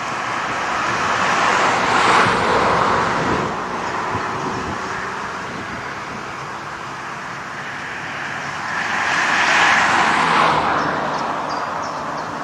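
Two vehicles passing by one after the other, each a swell of tyre and engine noise that rises and fades, the first about two seconds in and the second around nine seconds in.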